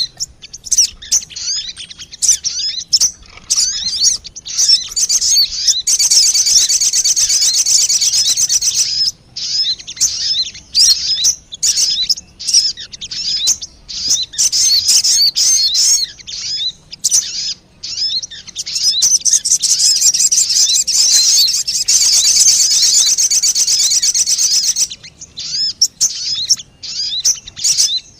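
Sogon bird lure call: high, rapid chirping and twittering. Two long, dense runs of fast repeated notes, one about six seconds in and one from about nineteen to twenty-five seconds, are separated by shorter broken phrases of chirps.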